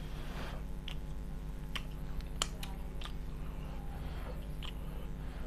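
Close-up mouth sounds of eating soft rice and curried vegetables by hand: chewing with scattered wet lip-smack clicks, about half a dozen, over a steady low hum.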